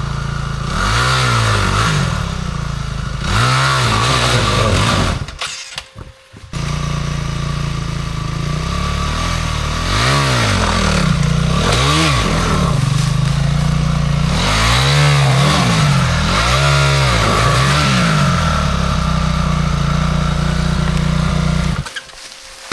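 Enduro dirt bike engine running, revved hard in short bursts about six times with idling between, as the bike is worked over rough ground. The sound breaks off briefly twice.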